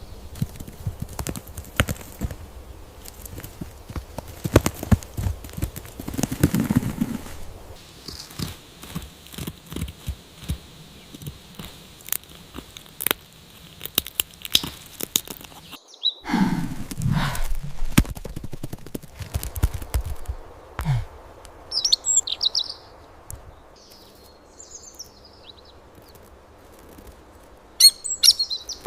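Small birds with wing flutters and a run of scattered taps and clicks, then a few short high chirps late on.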